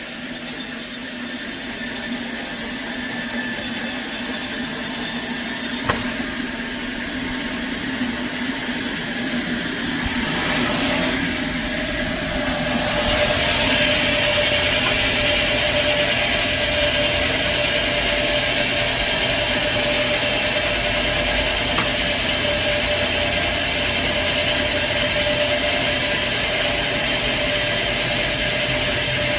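Sawmill machinery running steadily while a saw cuts through a log. About eleven seconds in, a steady whine sets in and the sound grows louder.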